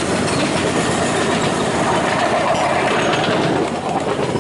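Train running along the track, a steady rumble of wheels on rails heard from on board.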